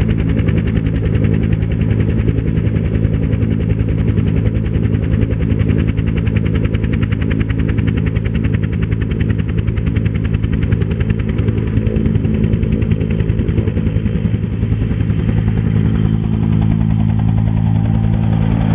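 Military helicopter's turbine engine and rotor running with a steady, rapid beat of the rotor blades. Near the end the sound shifts slightly and gets a little louder.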